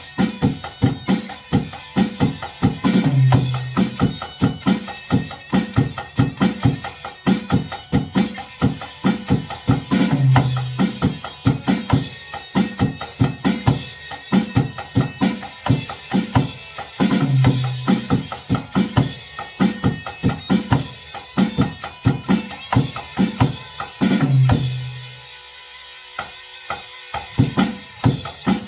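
Drum kit played in a steady beat along with a recorded pop-gospel song: quick, even hits under constant cymbal wash. About three-quarters of the way through, the drums drop out for a couple of seconds, then come back in.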